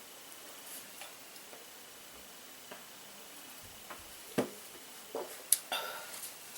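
Mouth sounds of someone eating: scattered wet clicks and lip smacks while chewing, the loudest about four seconds in and a few more close together near the end.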